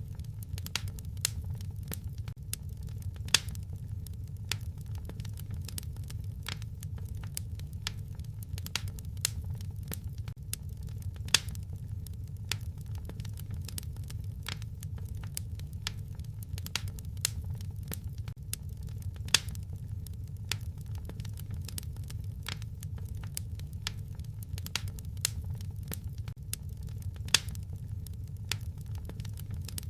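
Wood fire crackling in a fireplace: irregular sharp snaps and pops over a steady low rumble of the burning fire, with a few louder pops standing out.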